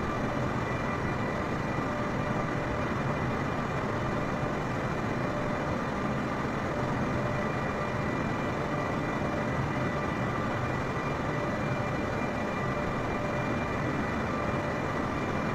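Jet airliner engines running steadily during the climb after takeoff: a constant, even noise with a few faint steady whines above it.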